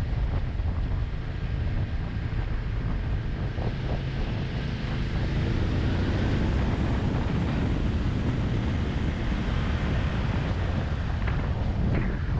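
Steady wind rush buffeting the microphone of a moving motorcycle, with a few brief knocks near the end.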